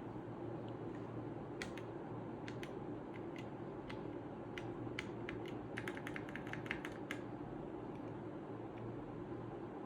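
Keys of a Redragon K530 Pro mechanical keyboard being pressed: scattered single keystrokes, then a quick run of about eight about six seconds in. A steady low hum lies underneath.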